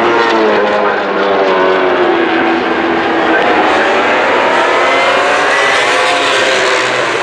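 Several racing engines running at once around a circuit, overlapping, their pitch rising and falling as they rev and change gear.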